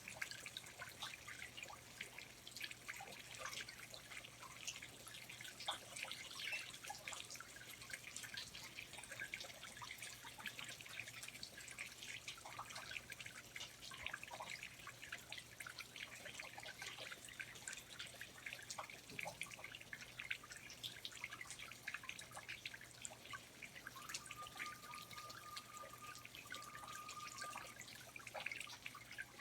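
Water dripping in a rainforest: many small, irregular drips, faint overall, over a low steady hum. Near the end a thin steady whistle sounds twice briefly.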